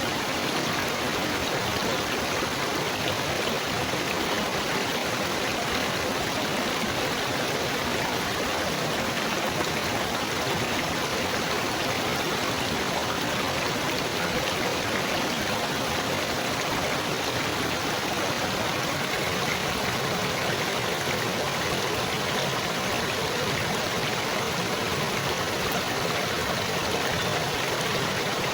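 Water babbling and trickling steadily, like a small stream or water feature flowing over stones.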